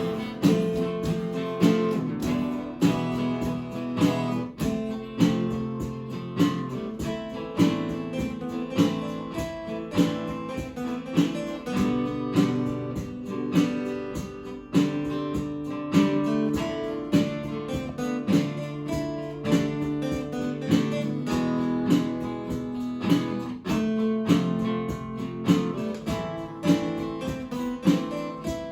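Acoustic guitar strummed in a steady rhythm, chord after chord, with a strong accented strum about once a second.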